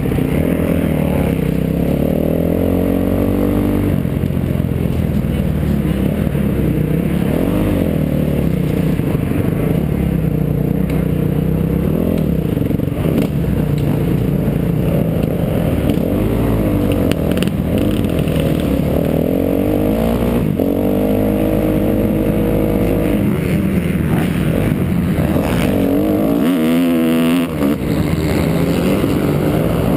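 Kawasaki KX250F's four-stroke single-cylinder engine revving up and down continuously as the dirt bike is ridden hard around a motocross track, with quick rises in revs near the end.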